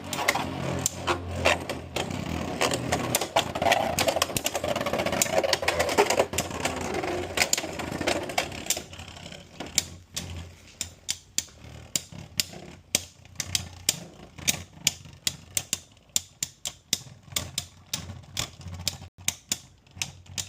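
Two Beyblade X spinning tops whirring and clicking as they clash against each other and the plastic stadium. The clicks come thick and fast at first, then thin out to separate hits after about nine seconds as the tops lose spin.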